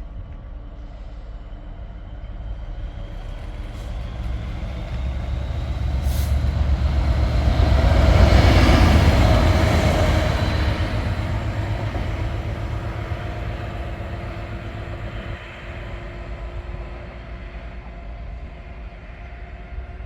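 Class 66 diesel freight locomotive passing, its two-stroke V12 engine rumbling with the rail noise. The sound swells to its loudest about eight seconds in, then fades away.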